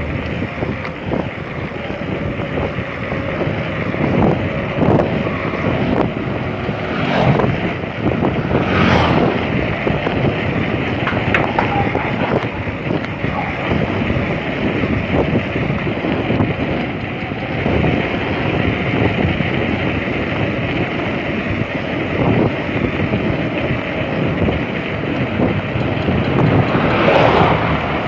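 Wind buffeting the camera's microphone while riding a bicycle: a loud, steady rush of noise with a few stronger gusts.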